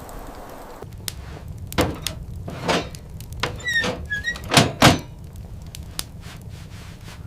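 A series of knocks and thuds, the two loudest close together about four and a half seconds in, with a short squeak rising and falling in pitch in between.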